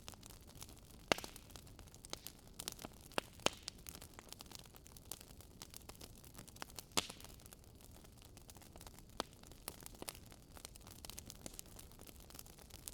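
Wood fire burning in a fireplace: a faint low hiss with irregular crackles and sharp pops, the loudest about a second in, around three and a half seconds in, and at about seven seconds.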